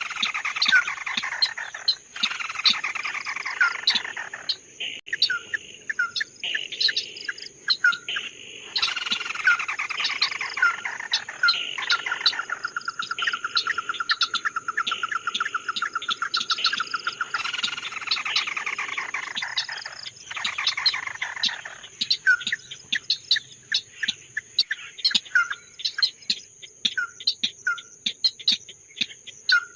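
Song of the bird sold in Vietnam as 'chim mắt đỏ' (red-eyed bird): repeated trills that fall in pitch, a long level trill about halfway through, and many short sharp chirps toward the end. A steady high insect buzz runs under it.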